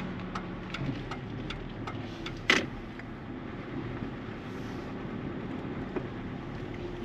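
Ford Ranger pickup truck driving at low speed, its engine and road noise steady, with a few light clicks and a sharper knock about two and a half seconds in.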